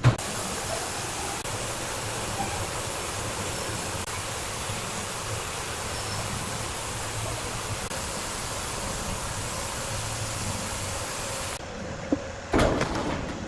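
Large sawmill saw running: a steady, even hiss-like noise over a low hum. It changes abruptly about eleven and a half seconds in, and a short louder burst of noise follows near the end.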